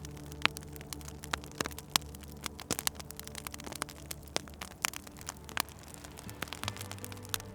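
Wood fire crackling, with irregular sharp pops and snaps over a low steady hum that shifts in pitch near the end.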